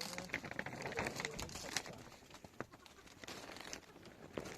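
A bird's low, wavering cooing call, with scattered clicks and rustling.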